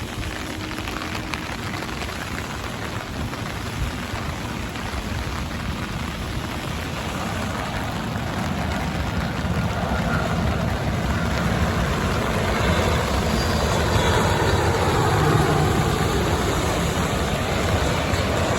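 Heavy rain hissing steadily, with a jet airliner's engine noise building up and growing louder through the second half.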